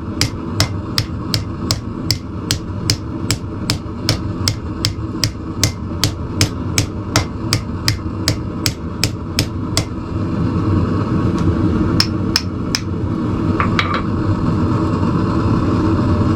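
Hand hammer striking hot steel tong jaws on an anvil, shaping a bend into them. The blows come at a steady two to three a second and stop about ten seconds in, then two more blows follow, over a steady low roar.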